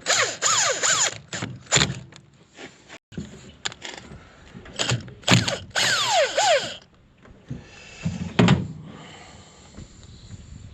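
Squeaky rubbing on glass as windows are wiped down, in several loud strokes with short falling squeals, along with a few knocks.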